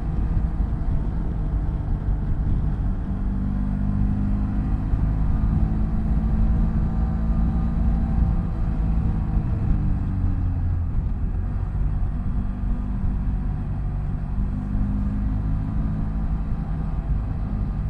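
BMW F800GS parallel-twin motorcycle engine running under way, its note holding steady, dropping about ten seconds in, then rising again with the throttle.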